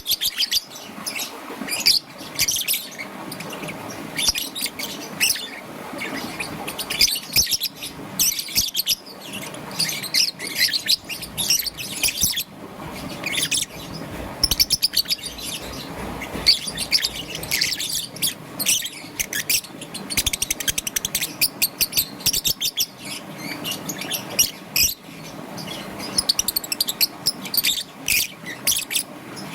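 Young peach-faced lovebird chirping in quick, high-pitched runs, with brief pauses between the runs.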